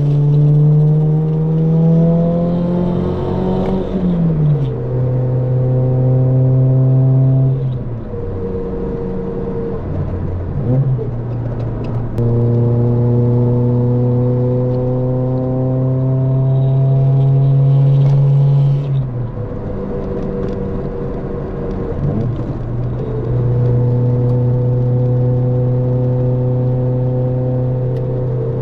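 Toyota AE86's 4A-GE four-cylinder engine through a Fujitsubo Duel exhaust, pulling through the gears: its note climbs steadily under throttle, then drops sharply several times at gear changes and lifts.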